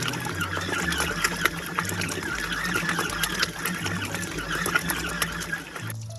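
Small portable collapsible washing machine running its wash cycle: a steady motor with fast, rattling clicks as the light tub bounces around. It cuts off abruptly near the end, with background music underneath.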